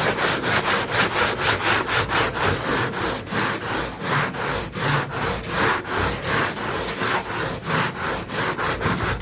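Hand sanding of a truck toolbox with worn sandpaper: quick, even back-and-forth scrubbing strokes, about four a second, keeping up a steady rhythm.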